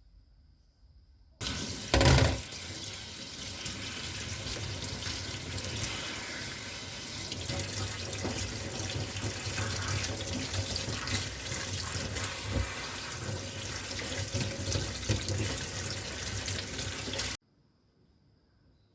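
Water running from a kitchen tap into a sink. It comes on suddenly about a second and a half in, with a brief loud splash just after, runs steadily, and stops abruptly near the end.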